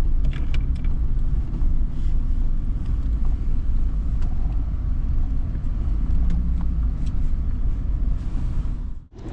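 Steady low rumble of a vehicle driving, with a few light clicks in the first second; the sound cuts out abruptly near the end.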